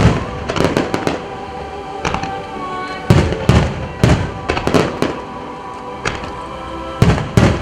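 Wide starmine of aerial firework shells, a rapid-fire barrage, bursting in several volleys of sharp bangs and crackle, with music playing underneath.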